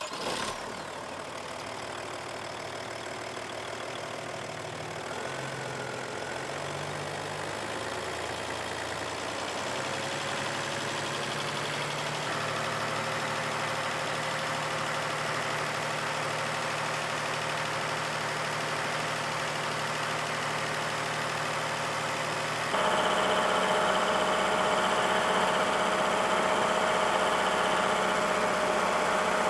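Audi allroad's V6 TDI diesel engine idling steadily. It gets louder about three-quarters of the way through.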